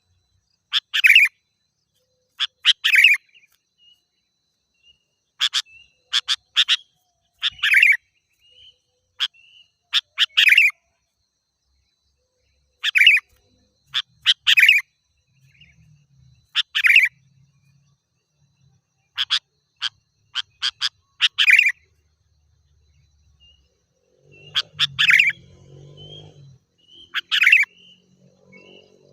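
Sooty-headed bulbul (kutilang) singing: short phrases of quick, bright chirping notes repeated about every two seconds, with brief pauses between.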